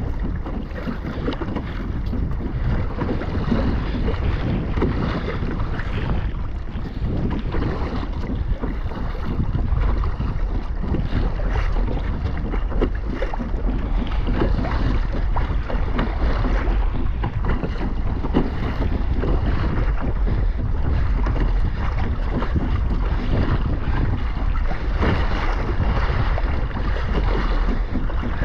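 Wind buffeting the microphone over water splashing against a kayak hull while it is under way at sea.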